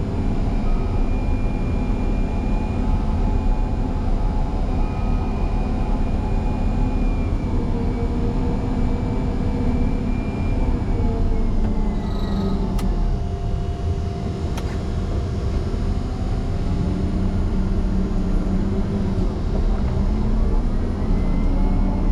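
Motor grader's diesel engine running under load as it pushes through snow. Its note drops about halfway through, with two sharp clicks, then picks up again.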